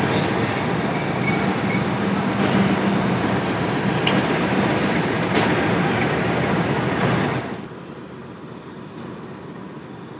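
Train running on the rails, a steady rumble with a few sharp clicks. The rumble drops away abruptly about seven and a half seconds in, leaving a much quieter background.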